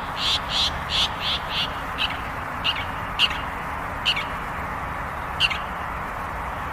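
Long-tailed shrike calling: a quick run of short harsh notes, about three a second, then single downslurred notes at irregular gaps, over a steady hiss of recording noise.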